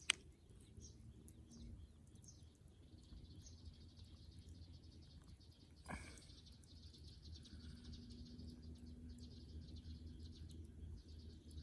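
Faint crackle of a bonfire of dead wood, with a sharp pop near the start and another about six seconds in. Insects chirr steadily in the background.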